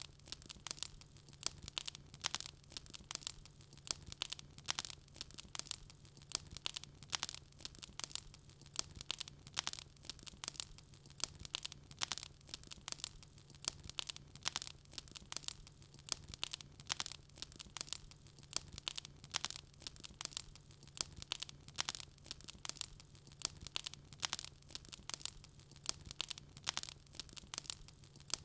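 Wood fire crackling in a fireplace: dense, irregular snaps and pops, several a second, over a faint steady low hum.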